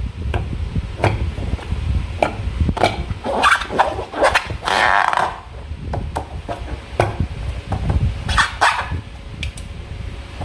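Slime being squeezed and stretched by hand: a run of sticky, wet clicks and squelches, with longer squelches about five seconds in and again near eight and a half seconds.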